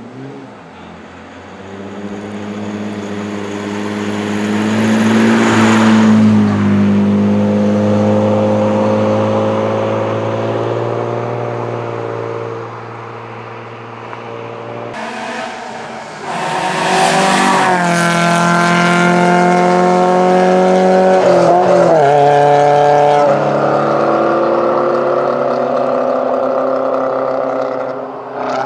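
Historic racing cars driving past one after another at full engine note. The first grows louder, peaks and fades away. A second comes in suddenly louder about halfway through, its engine pitch rising and dropping through gear changes before easing off near the end.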